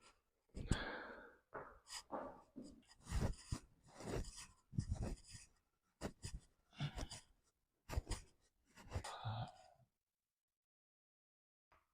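A man's heavy breathing from exertion: irregular forceful exhales and groans, one after another, stopping about ten seconds in.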